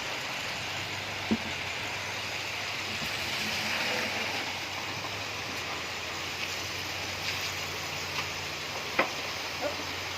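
Steady rushing noise with a low hum under it, broken by a few sharp knocks, one about a second in and the loudest near the end.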